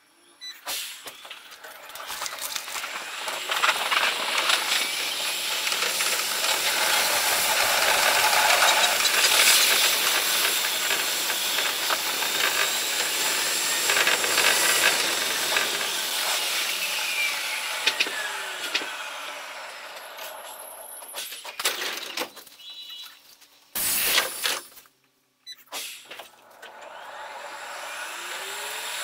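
Electric commuter train's running noise from the driver's cab, played at five times speed so it becomes a high, rushing hiss with faint gliding whines. It swells in the first third, then eases off, and drops out briefly twice near the end.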